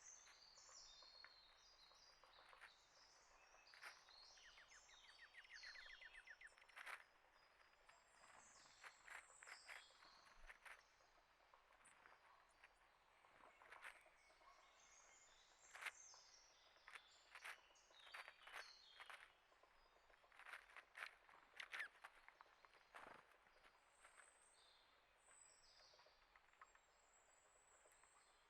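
Faint birdsong: small birds chirping and twittering, with a quick trill about five seconds in and many short ticks and taps scattered throughout.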